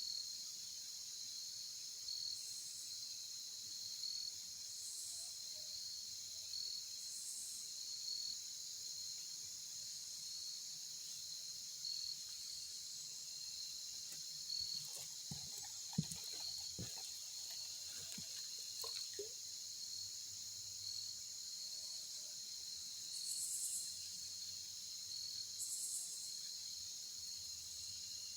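Steady high-pitched chorus of insects trilling without a break, with a short buzzing call repeated every two or three seconds near the start and again near the end. A few faint knocks and clicks fall around the middle, the sharpest just past halfway.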